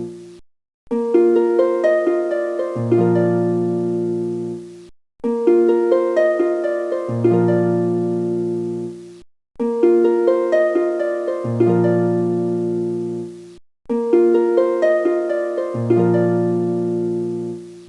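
Background music: a plucked, harp-like melody over low held notes, one short phrase looped about every four seconds with a brief silent break before each repeat.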